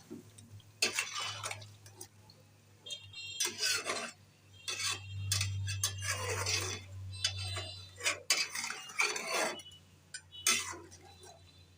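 A spoon stirring and scraping in a pot of chicken curry with potatoes, with irregular clinks of metal on the pot, over a low steady hum.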